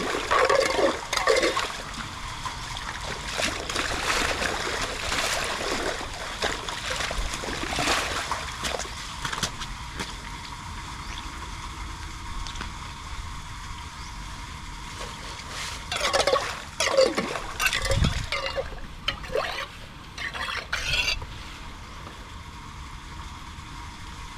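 Water trickling and splashing, as in a culvert or drain being cleared of debris. There are louder bursts of splashing near the start and again about two-thirds of the way through.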